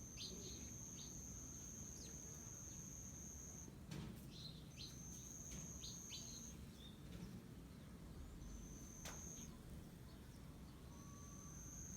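Faint garden ambience: an insect's steady, high-pitched trill that starts and stops in stretches of one to four seconds, with a bird's short, quick chirps in a couple of clusters. There are two soft clicks, about four and nine seconds in.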